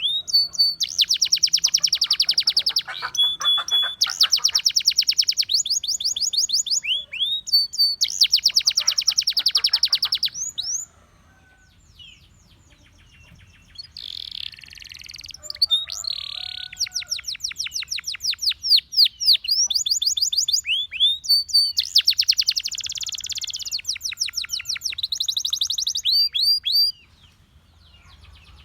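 Russian singing canary in song: long phrases of rapid trills, each a fast run of repeated high notes, with a pause of a couple of seconds near the middle and a short break near the end.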